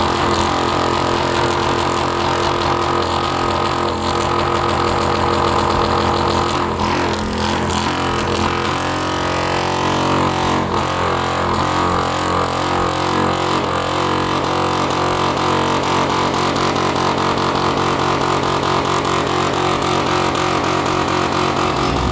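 Motorcycle engine held at steady revs through a long burnout. It makes a continuous loud drone whose pitch shifts a little about nine seconds in, then drops away at the very end.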